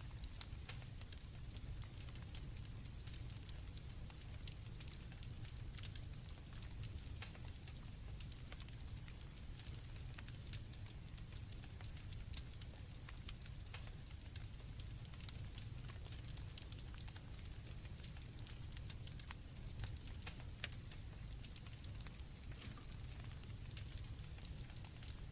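Campfire crackling with frequent small sharp pops over a low rumble, while crickets chirp steadily at two high pitches.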